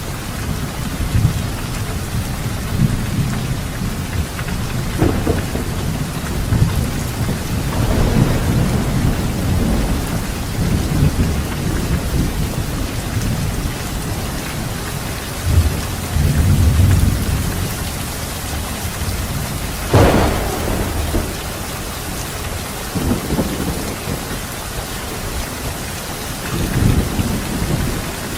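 Steady heavy rain with thunder rumbling low and repeatedly throughout, and a sharp thunderclap about two-thirds of the way through.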